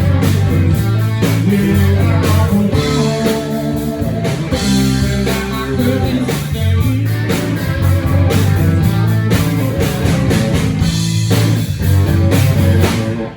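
Live blues-rock band playing an instrumental passage with guitar, bass and drums, cutting off sharply as the song stops near the end.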